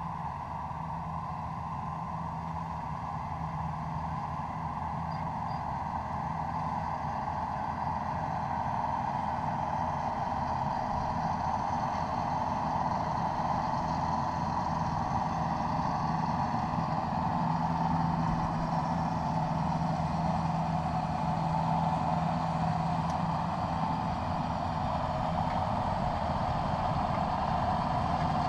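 An engine running steadily with a constant low hum, slowly getting louder.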